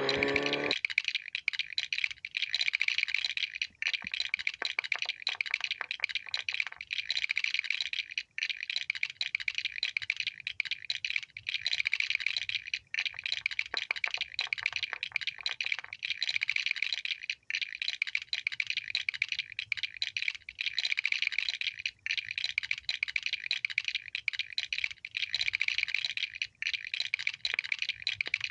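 Rapid, continuous clicking and clattering of plastic Lego pieces being handled and pressed together, broken by a few brief pauses.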